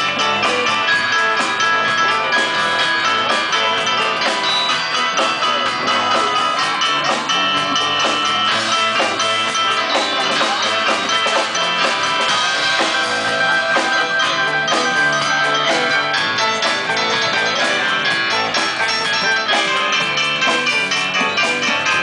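A live band playing a song, loud and continuous.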